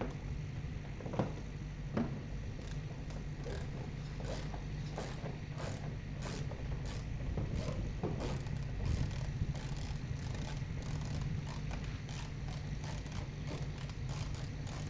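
Scattered clicks and clinks of hand tools and metal parts being handled, over a steady low hum.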